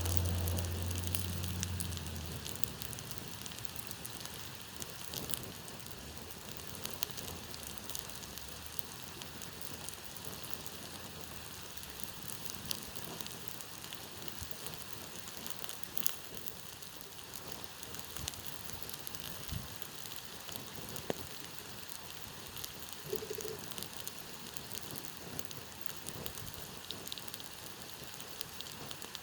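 Campfire crackling with scattered sharp pops over the steady rush of a stream. A low hum fades out in the first two seconds.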